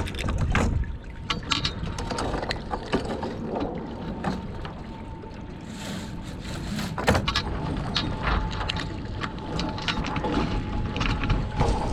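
Irregular knocks, clicks and rattles of a small sailboat's hull and fittings being handled at a dock, over a low rumble of wind on the microphone.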